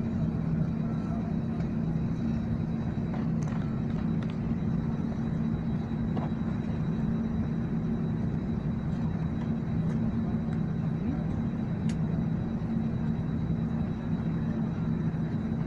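Steady drone of an airliner's engines running, with a low hum and a thin high whine held at an even pitch.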